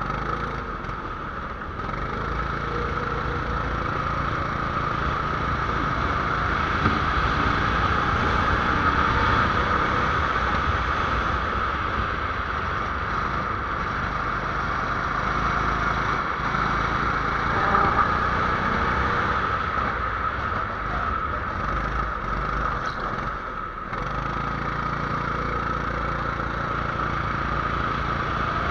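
270cc kart engine running continuously under load, with a brief drop in level a few seconds before the end.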